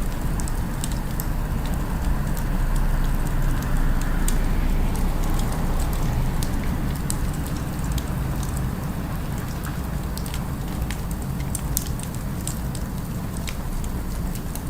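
Wood fire crackling, with frequent sharp pops and snaps over a steady low rumble of city background sound.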